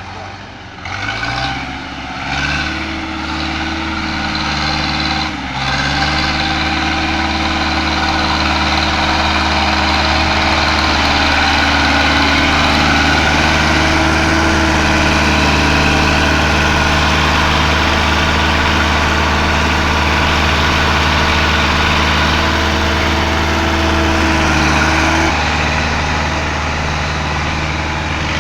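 Tractor diesel engine revving up over the first few seconds, dipping briefly about five seconds in, then running steadily at high revs under load in mud; its note drops slightly near the end.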